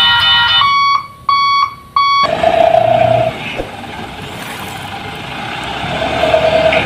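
Three short electronic beeps. From about two seconds in, outdoor truck noise with a short horn toot, and another toot near the end.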